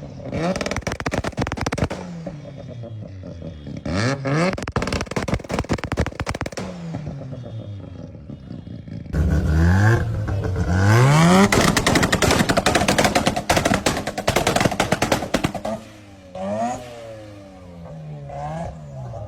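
Mazda RX-7 rotary engine exhaust revved up and down again and again, with rapid popping and crackling between the revs. It gets louder and fuller about halfway through.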